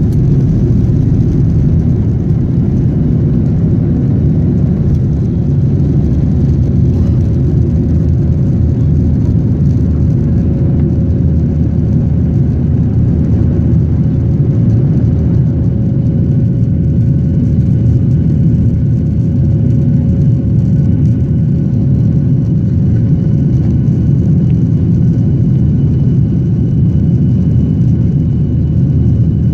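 Boeing 737-800 jet engines and airflow heard from inside the cabin at takeoff power: a loud, steady low rumble, with faint steady whining tones coming in about halfway through.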